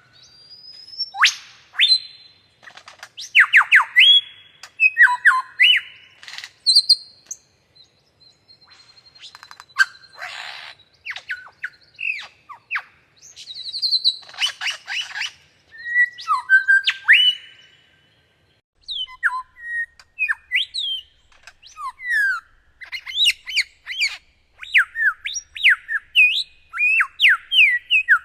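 Bird calling and singing in a varied run of short whistled notes, many sliding down in pitch, mixed with a few harsh, noisy notes, in phrases broken by short pauses.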